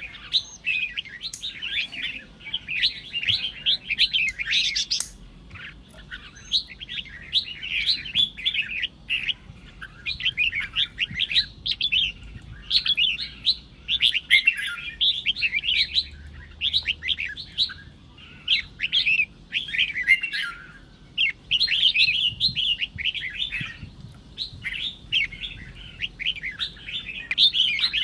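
Red-whiskered bulbul singing its competitive, provoking song: fast, chattering warbled phrases delivered in runs of a second or two, one after another with short gaps.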